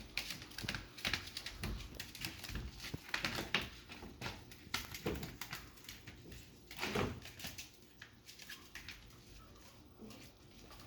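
Chihuahua puppies playing: quick scuffling and clicking of small paws and bodies on the floor, with two louder short bumps about five and seven seconds in, then quieter.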